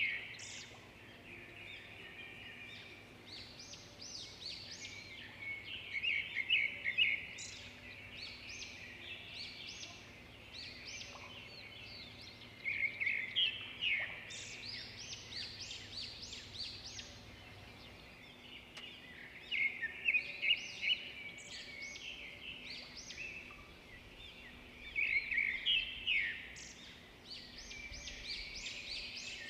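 Birdsong: bursts of rapid chirping that come back about every six to seven seconds, with quieter twittering in between.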